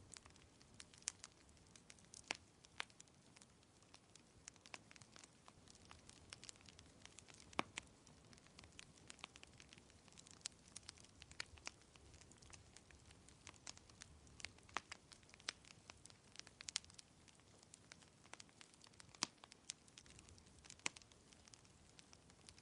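Wood fire crackling: irregular sharp pops and snaps, some much louder than others, over a faint steady hiss.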